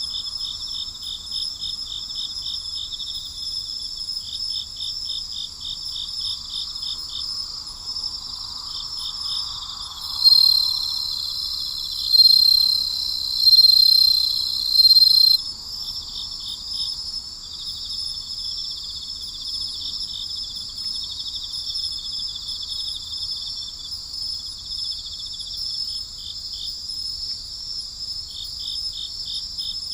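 Night chorus of crickets and other insects: steady high-pitched trilling with repeated runs of rapid chirps. Around the middle, one louder, higher trill sounds in about four bursts before dropping back into the chorus.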